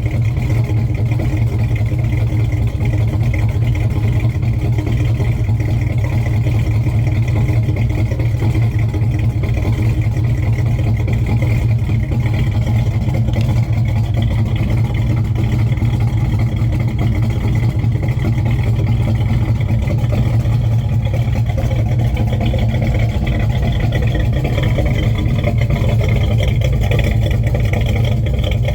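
1970 Chevelle's engine idling steadily as it warms up after a cold start.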